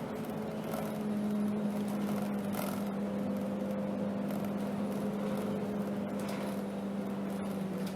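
Alexander Dennis Enviro 200 bus heard from inside while driving: a steady engine drone with a constant low hum, and a couple of faint rattles.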